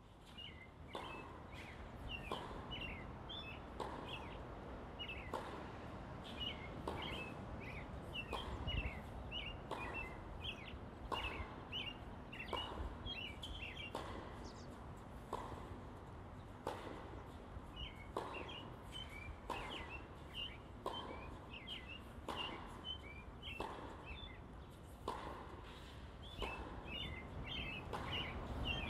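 Small birds chirping and twittering in quick, high calls, with a soft, regular pulse about every second and a half beneath them.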